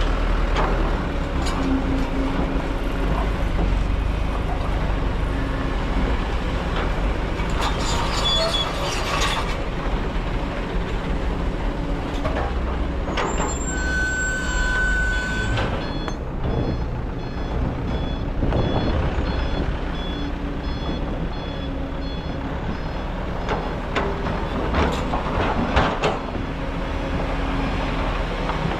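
Kobelco excavator's diesel engine running steadily under working load while digging sand. About midway, a single high steady tone sounds for roughly two seconds.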